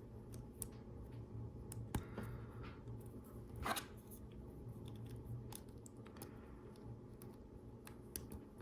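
Small plastic clicks and rustling as LEGO Technic pieces are handled and pushed together, with a sharper click about two seconds in and a brief rustle just before the four-second mark.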